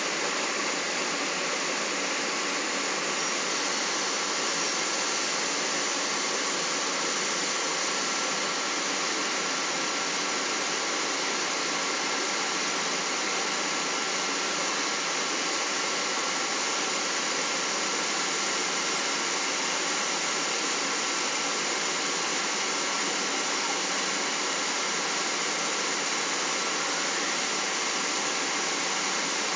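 Boeing 777 cabin noise in flight: the steady rush of airflow and jet engines heard from a passenger seat, unchanging throughout, with a faint steady whine above it.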